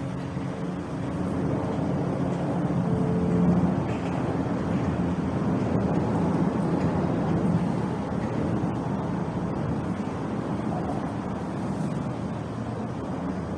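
Motor vehicle engine and road noise, most likely traffic crossing the bridge, loudest about three to four seconds in and then running on as a steady rumble.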